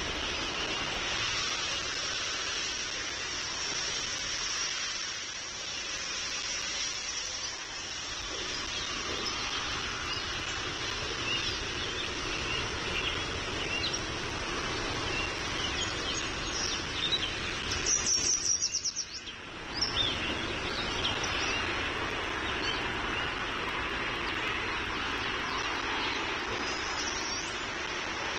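Birds chirping over a steady outdoor background hiss. About two-thirds through, a bird gives a loud, rapid series of about ten high notes lasting a second or so.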